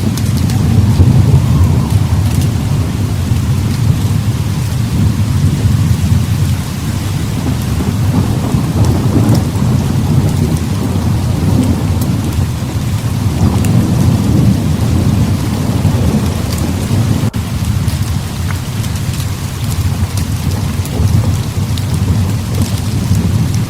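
Heavy rain pouring steadily, with deep rolling thunder rumbling underneath and swelling and easing every few seconds.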